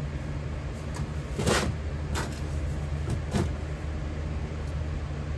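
Steady low machine hum. Three short knocks come through it, at about one and a half, two and three and a half seconds in.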